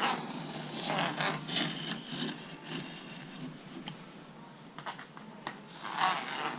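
Large knife blade drawn along a ruler, scraping and cutting into a foam-core composite wing in several strokes, with a few light clicks midway.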